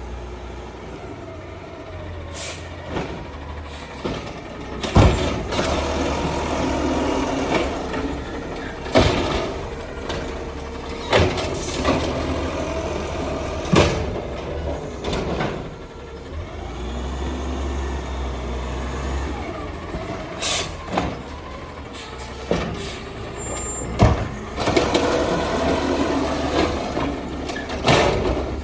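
Battle Motors garbage truck with an Amrep body running, with sharp clanks and bangs every few seconds.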